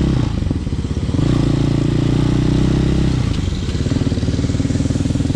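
Hawk 250 motorcycle engine running while being ridden. It eases off just after the start, pulls strongly again from about a second in, drops away around three seconds in, then settles to a steadier, lower note, with wind rushing over the microphone.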